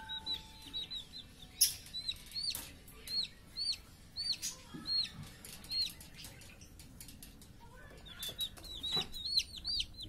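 A caged bird chirping: short, high chirps that rise and fall, about one every half second, stopping about six seconds in and coming back in a quick run near the end. Scattered knocks and rustles from the bird moving about the metal cage, the loudest early on.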